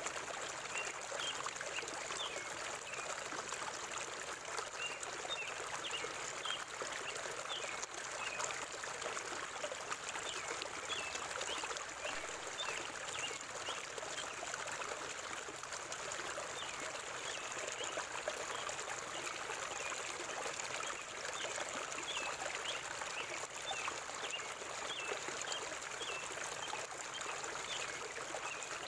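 River water flowing steadily, with small birds chirping in short, repeated notes throughout.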